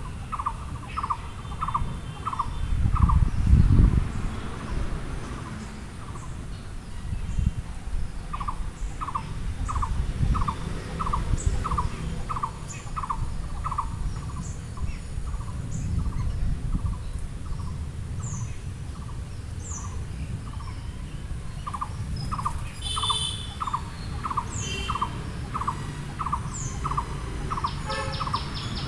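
Birds calling: runs of one short note repeated about twice a second, with occasional high falling chirps. Underneath is a low rumble, loudest about three seconds in.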